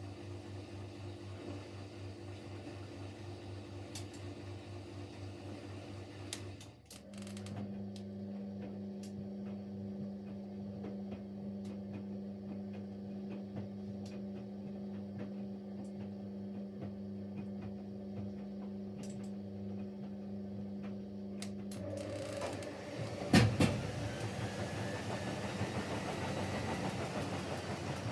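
Siemens Siwamat Plus 574 washing machine humming steadily, its tone changing after a brief dip about a quarter of the way in. Near the end a loud knock comes, then the drum starts its short spin after the final rinse, with a rising whine and pulsing rumble as it speeds up.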